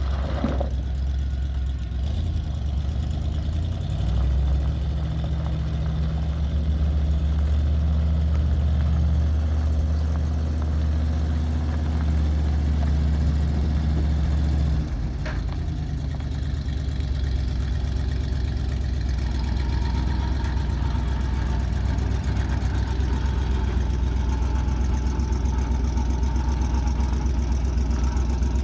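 1976 International Loadstar 1600 grain truck's gasoline engine idling. About four seconds in it picks up to a faster, steadier run for roughly ten seconds, then drops back to idle.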